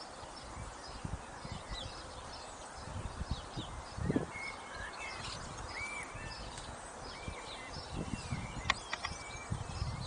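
Several small birds chirping and singing throughout, many short calls and warbles, over irregular low rumbles.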